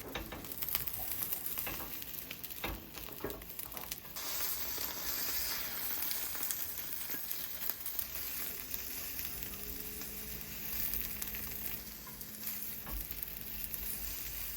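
Food sizzling as it fries in a hot pan: a steady hiss with small crackles and spits.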